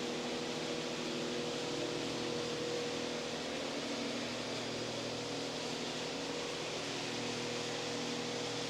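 Steady background hum of ventilation or air handling: an even hiss with a faint, unchanging tone and no sudden sounds.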